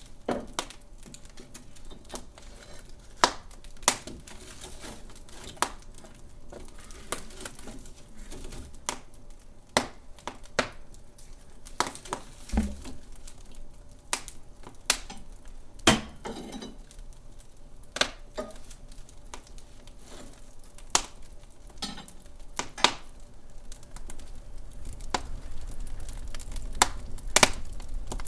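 Wood fire in a fireplace crackling, with sharp irregular pops every second or so over a low steady hiss of burning.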